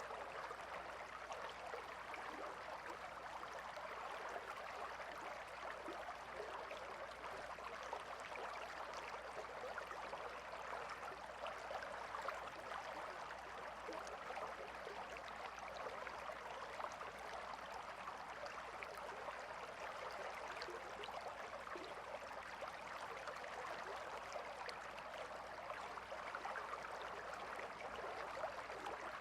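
River water flowing steadily over rocks, a continuous even babble and splash.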